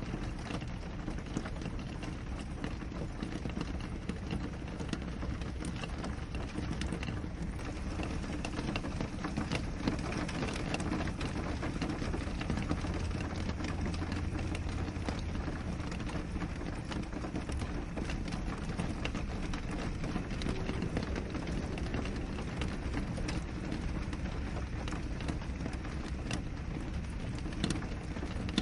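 Steady rain on window glass: an even hiss dense with small drop ticks, over a low rumble.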